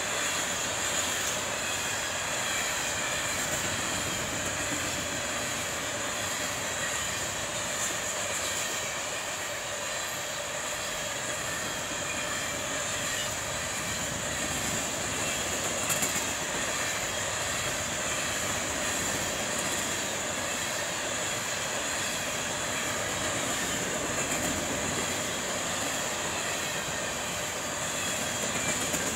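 Freight train of Herzog rock-train hopper cars rolling steadily past on the rails, with a constant high-pitched wheel squeal over the rolling noise.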